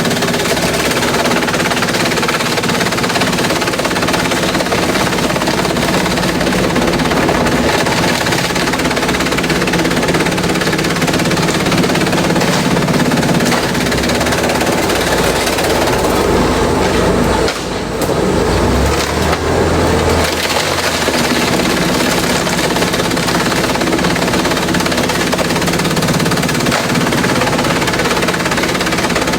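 Industrial shredder running under load as it breaks up bamboo: a loud, continuous clatter of cracking and splintering over a steady machine hum, with a brief dip about seventeen seconds in.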